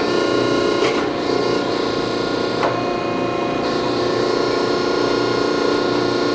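Landis 1R cylindrical grinder running: a steady hum and whine from its wheel spindle and hydraulic drive as the table traverses, with two short clicks about one second and near three seconds in.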